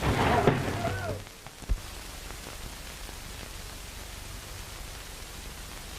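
A voice briefly at the start, then the steady hiss of an old film soundtrack, with one sharp click about 1.7 s in.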